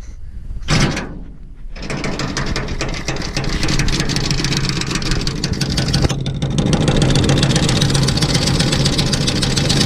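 Impact wrench running continuously on a truck-bed mounting bolt, a steady rapid rattling whir. It starts with a short burst, runs on, grows heavier about two-thirds of the way through, and stops abruptly.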